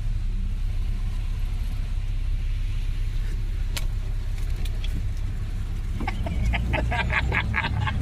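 Wind buffeting the microphone ahead of a storm: a steady low rumble. About six seconds in, a rapid run of short high chirps starts over it.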